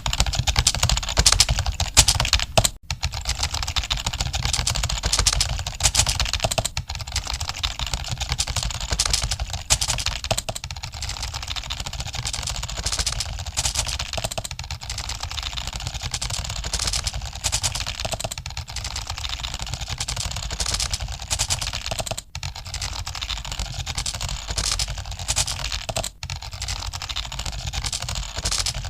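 Computer keyboards being typed on in an exam hall: a dense, steady clatter of key clicks, broken by three brief gaps.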